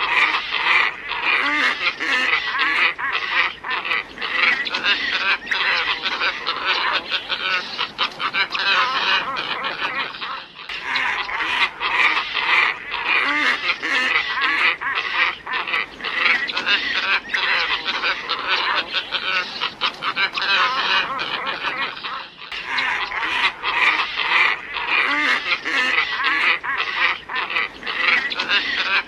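A flock of glossy ibises calling in dense, overlapping croaks, played as a looped lure recording that restarts about every twelve seconds.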